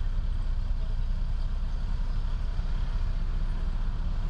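Heavy diesel construction machine's engine running steadily, a low, even rumble.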